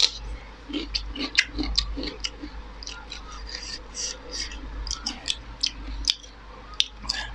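Close-miked chewing of raw cucumber slices: irregular crisp crunches and wet mouth clicks, over a low steady hum.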